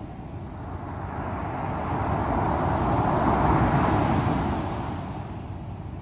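Ocean waves breaking on the shore over a constant low rumble of surf: one wave's wash swells up, peaks around the middle, and fades away.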